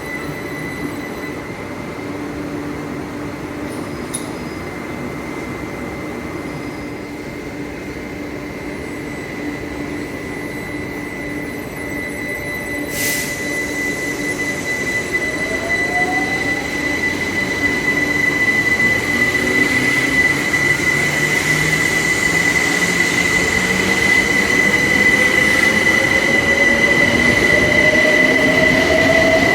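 Electric passenger train pulling away, its traction motors giving a rising whine that grows louder as it gathers speed, over a steady high-pitched tone. A single sharp click comes about 13 seconds in.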